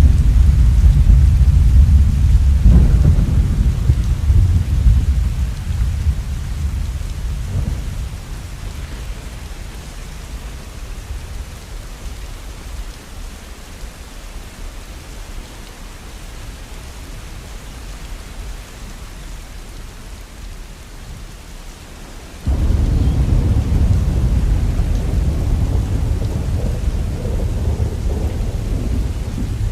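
Steady rain with rolling thunder: a deep rumble at the start dies away over several seconds, leaving the rain, and a second rumble comes in suddenly about three-quarters of the way through.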